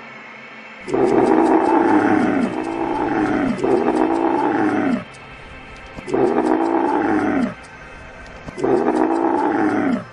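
An animal calling: five drawn-out calls, each falling in pitch, the first three back to back and the last two spaced apart.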